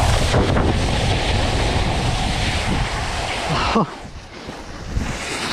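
Snowboard scraping and hissing over slushy spring snow, with wind rushing over the mouth-mounted camera's microphone. About four seconds in the scraping cuts out suddenly, as the board leaves the snow off a jump, and it picks back up about a second later.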